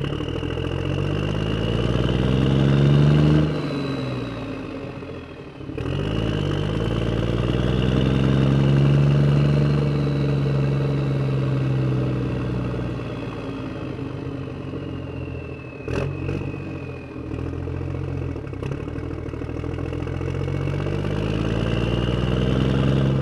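A motor running at a varying speed, its pitch climbing and falling back over several seconds at a time, easing off briefly a few seconds in, with one sharp knock past the middle.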